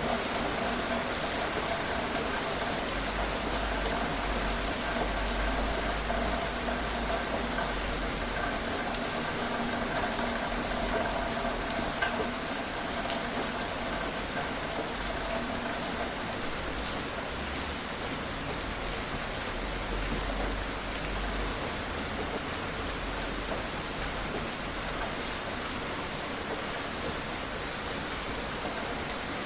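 Steady gentle rain falling: an even hiss with scattered drop ticks. A faint steady hum sits beneath it for about the first half.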